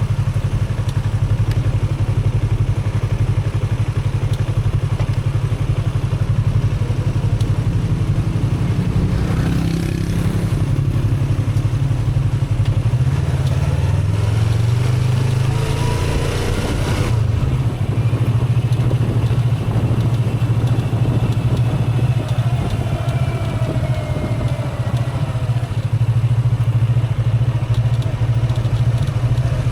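Motorcycle engine running steadily under way, rising in pitch as it speeds up about a third of the way in and again just past the middle, then changing abruptly; later a tone slowly falls in pitch.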